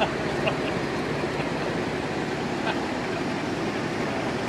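Miniature railway train running along the track: a steady, even rumble.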